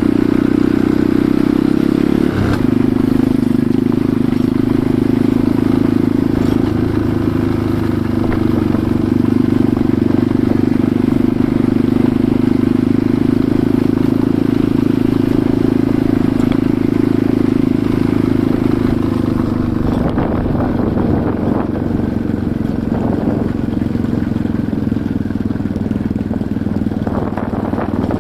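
Enduro motorcycle engine running steadily while riding, its note stepping about two and a half seconds in, with scattered rattles and knocks in the last third.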